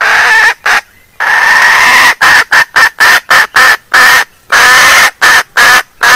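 Junglefowl hen calling, the female lure call used to draw in males: two longer harsh calls, then a quick run of short clucking notes about three a second, with one longer call in the middle.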